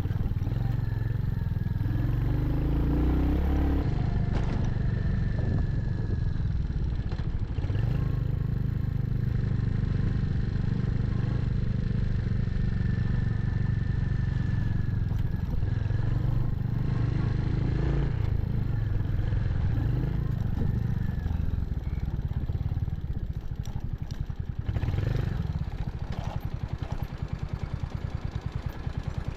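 Royal Enfield Hunter 350's single-cylinder engine running under way, a steady low engine note with even firing pulses. About 25 seconds in it gets quieter and steadier, as if easing toward idle.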